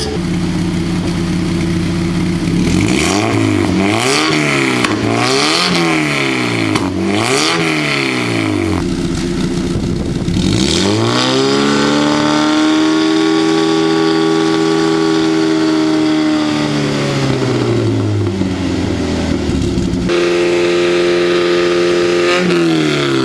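Mazda MX-5 NC engine through a Remus aftermarket exhaust, blipped four times in quick succession, then revved up and held at steady high revs for several seconds before dropping back to idle. A last fall in revs comes near the end.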